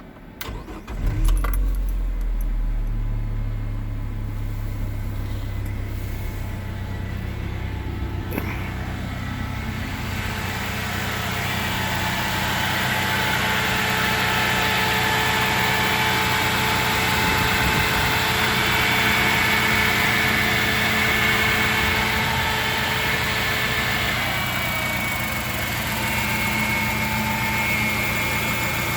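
Chrysler four-cylinder petrol engine in a GAZelle 3302 van cranks and catches about a second in, then idles evenly and smoothly, without stumbling.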